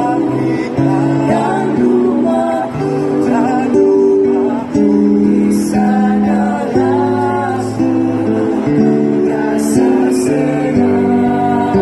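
Choir singing in several parts, holding chords that change about every second, with instrumental accompaniment.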